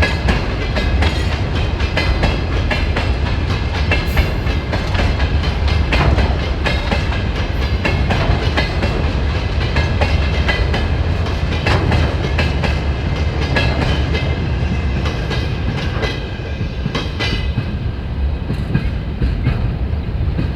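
Freight train rolling past at speed, its wheels clattering over the rail joints in a steady run of clicks, with a faint high metallic ringing.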